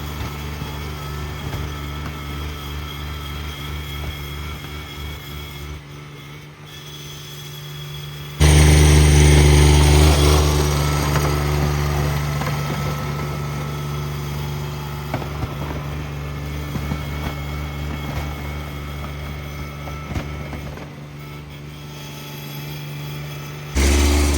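Cub Cadet 1782 garden tractor's engine running steadily. It gets abruptly louder about a third of the way in, eases off gradually over several seconds, then jumps up again at the very end.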